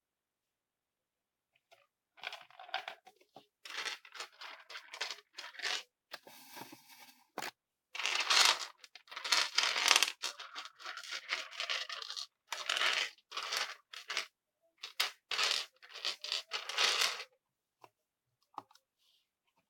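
Clear slime being squeezed and stretched by hand, giving irregular crackling, squishing bursts that begin about two seconds in and stop near the end.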